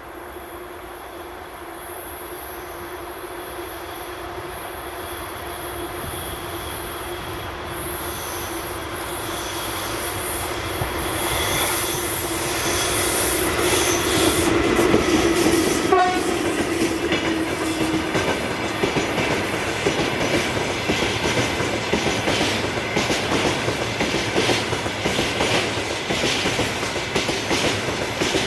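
VL10U electric locomotive hauling a freight train, approaching and growing louder for about 16 seconds with a steady tone over the rumble; the tone stops about 18 seconds in and the clickety-clack of the wagons' wheels over rail joints follows as the train passes.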